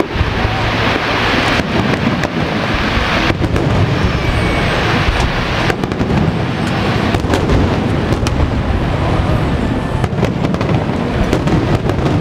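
Aerial fireworks display: a rapid, dense run of shell bursts and crackle, the bangs overlapping into a continuous rumble.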